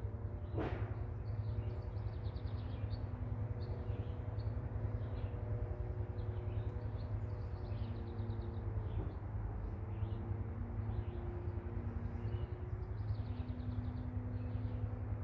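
Small birds chirping repeatedly over a steady low rumble, with a brief sharp sound about half a second in.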